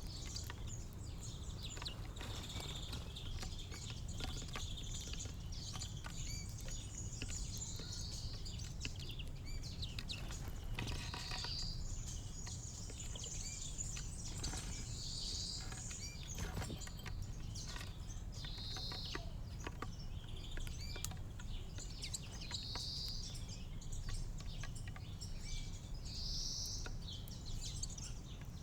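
Small garden birds chirping and singing, with one short song phrase repeated about every three to four seconds, over a steady low background rumble.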